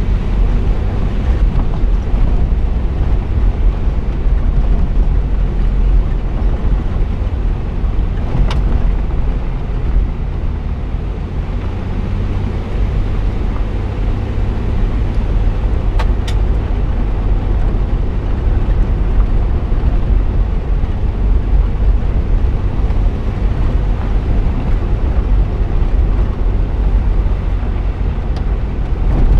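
Jeep engine running at low speed with tyres rumbling over a gravel dirt track, heard from a camera mounted on the hood. The rumble is steady and deep, with a couple of sharp clicks, one about eight seconds in and one about sixteen.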